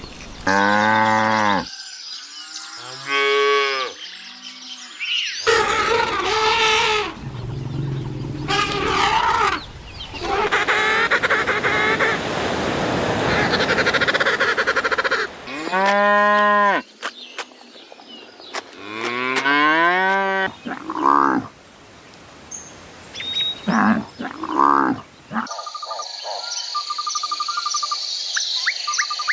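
Cattle mooing: a series of separate long, drawn-out calls, with noisy stretches between them. Near the end a different steady, rapidly pulsing high sound takes over.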